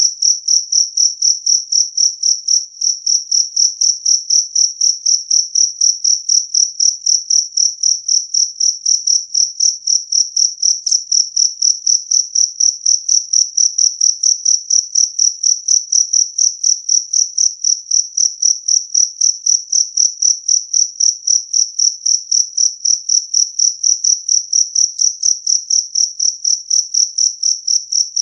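Jangkrik kalung (two-spotted field cricket, Gryllus bimaculatus) chirping loudly and clearly in a steady, even rhythm of about three chirps a second.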